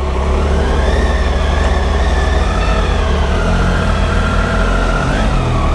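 Triumph Tiger 800's three-cylinder engine running steadily, with a deep low rumble underneath and a few pitched tones drifting slowly up and down.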